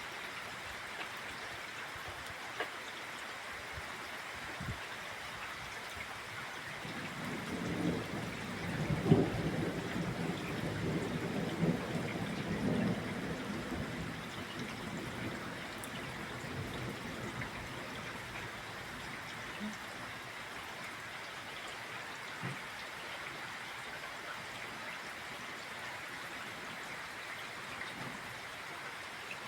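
Steady summer rain falling and pattering. About seven seconds in, a roll of thunder rumbles, peaks a couple of seconds later and fades out over several seconds.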